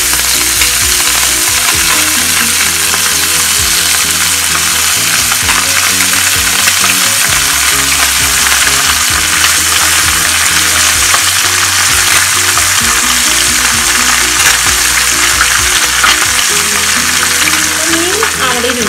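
White sardine pieces frying in hot coconut oil in a pan: a steady, loud sizzle. Background music with a low, stepping melody plays underneath.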